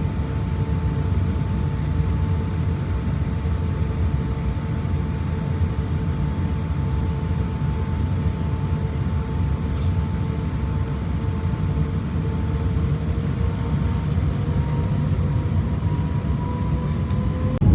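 Cabin noise inside an Airbus A350-1000: a steady low rumble with a hum from its Rolls-Royce Trent XWB engines, the hum rising slightly in pitch over the last few seconds.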